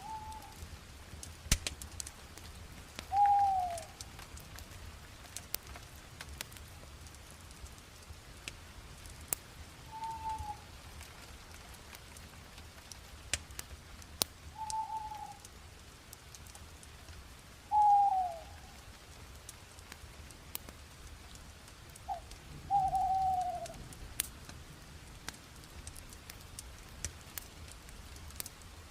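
Wood fire crackling, with scattered sharp pops and ticks over a low steady rumble. A short, falling whistled note sounds six times, a few seconds apart; these notes are the loudest thing heard.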